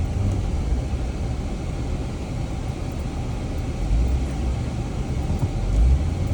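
Jeep engine running under load in four-wheel drive on a rough trail, a steady low rumble that swells about four seconds in and again near six seconds.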